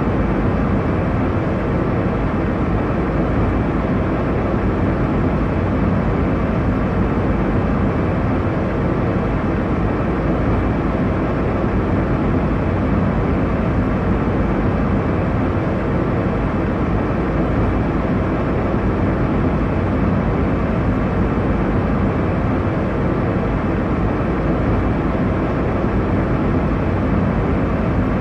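Airliner cabin noise in cruise: a steady, deep rushing hum of engines and airflow, with no changes.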